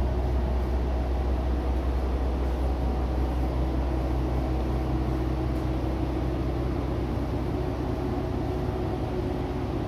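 Diesel railcar engine running steadily: a low rumble with a steady hum, slowly getting a little quieter toward the end.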